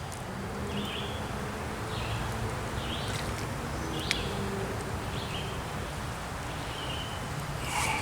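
A flying insect buzzing, with short faint high chirps recurring about once a second and a single sharp click about four seconds in.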